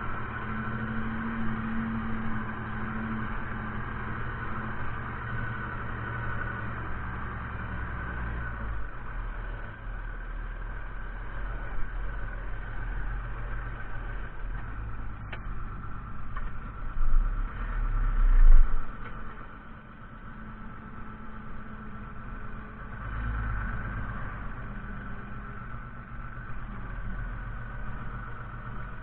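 Fiatagri 130-90 tractor's diesel engine running steadily. Its note shifts about nine seconds in, and a louder low rumble rises and falls briefly around the middle.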